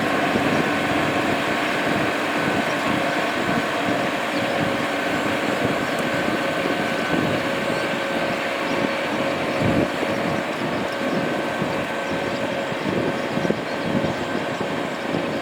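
Tractor diesel engine running steadily, with a constant whine over a rough low rumble.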